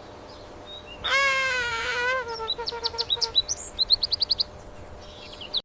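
Bird calling: a drawn-out, wavering call about a second in, followed by a string of quick high chirps that ends in a fast run of about six notes.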